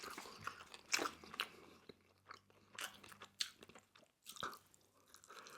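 Close-miked chewing of food, with a scatter of short, crisp crunches. The strongest crunch comes about a second in.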